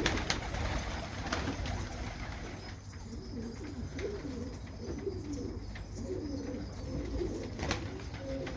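Domestic pigeons cooing over and over in a loft, a low warbling, with a few sharp clicks.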